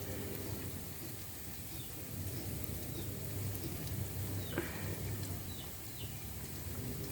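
Food frying in a cooking pot, a steady sizzling hiss.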